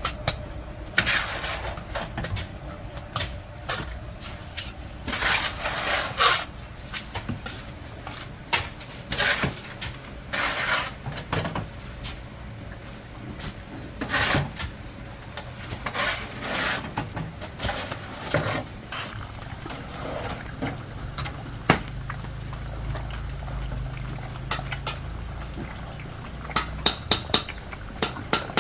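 Irregular scraping and clattering of hard objects, short strokes a second or two apart over a low steady hum.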